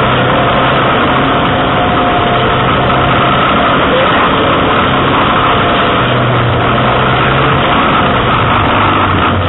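Pontiac Solstice GXP's turbocharged 2.0-litre four-cylinder engine running at fairly steady revs on a wet autocross course, with a steady hiss of tyres on wet tarmac.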